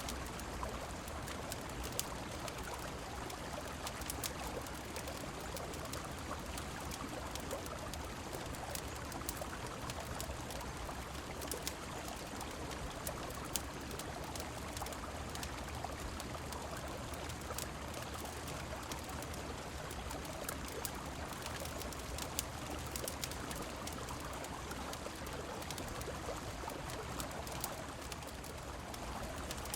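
River water rushing steadily with rain falling, and scattered sharp crackles of a wood fire.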